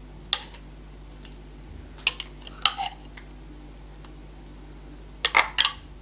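Tableware clinking and knocking as food is laid into a bowl: a sharp clink early, a few more in the middle, and a quick cluster of four near the end.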